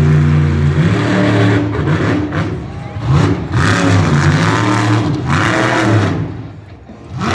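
Monster truck engine revving hard, its pitch climbing and falling several times, then easing off near the end.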